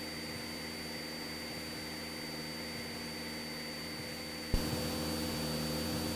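Cessna 172SP's four-cylinder Lycoming engine and propeller droning steadily at cruise power in the cockpit. A single click comes about four and a half seconds in, and the drone is a little louder after it.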